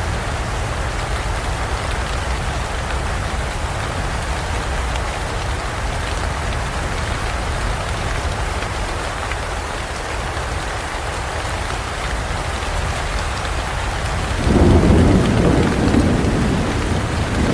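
Rainstorm rain falling steadily in a forest; near the end a loud, low rumble of thunder breaks in suddenly and carries on.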